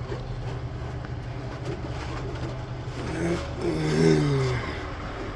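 Steady low mechanical hum in the background, with a brief voice-like sound about three seconds in.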